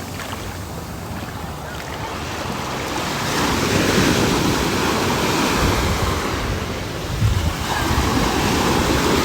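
Ocean surf washing onto the beach, with wind buffeting the microphone; the waves swell louder about three seconds in.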